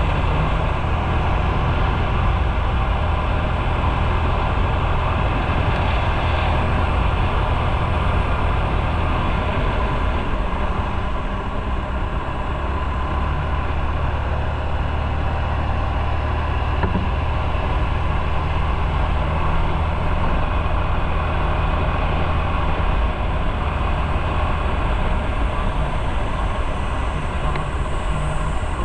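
Motorcycle engine running steadily under a constant rush of noise, with a low drone that shifts slightly in pitch about halfway through.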